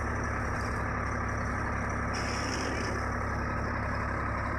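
Diesel tractor engine running steadily, a low continuous hum.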